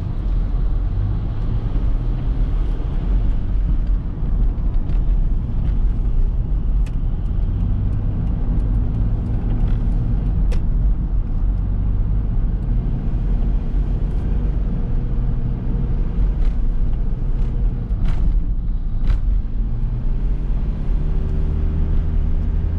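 Cabin sound of a 1994 Mitsubishi Delica L400's 2.8-litre turbo diesel on the move: a steady low engine drone mixed with road noise. The engine note rises and settles several times, and a few short clicks or rattles sound along the way.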